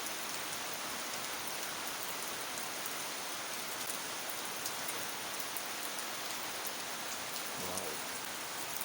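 Heavy rain falling steadily: an even, dense hiss of a downpour with scattered individual drop ticks.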